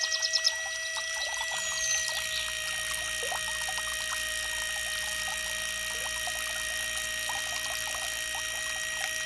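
Water pouring and trickling from a small DC-motor water pump, over a steady high-pitched motor whine. A rapid run of high ticks stops about half a second in.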